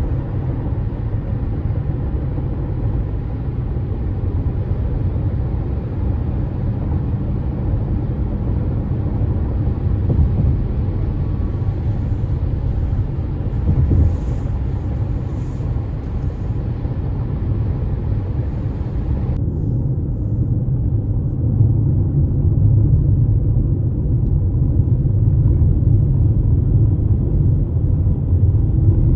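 Car driving at road speed, heard from inside the cabin: a steady low rumble of engine and tyres.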